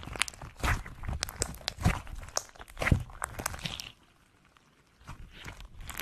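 Hands squeezing and pressing slime, making irregular sticky crackles and clicking pops. It stops for about a second near the end, then starts again.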